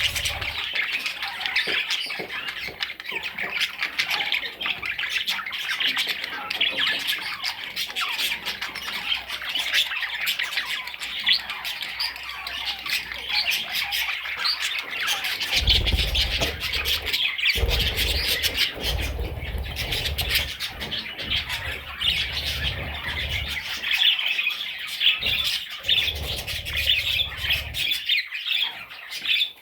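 Budgerigar warbling and chattering without pause, a fast, scratchy stream of high chirps and squawks. About halfway through a low rumble joins underneath and stops shortly before the end.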